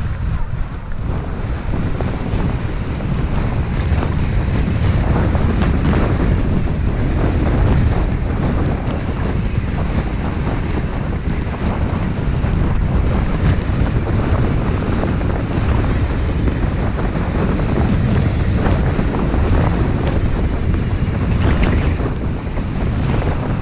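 Heavy wind buffeting the camera's microphone while skiing downhill, a loud, steady rumbling rush.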